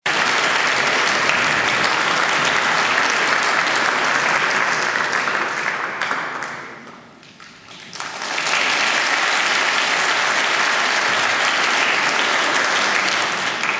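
Audience applauding. The applause dies down about halfway through, then rises again and begins to fade near the end.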